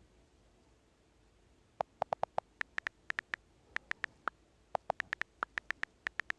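Keyboard typing: after a near-silent start, a quick run of short, irregular key clicks begins about two seconds in.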